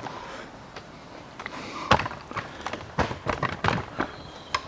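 Irregular metallic clicks and knocks of hand tools working the steering rack boot and its clamp loose, the sharpest about two seconds in and a quick run of them near the end.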